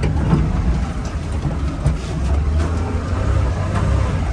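Mini truck's small engine running steadily under load while driving on rough ground, with rattling and a short knock about two seconds in.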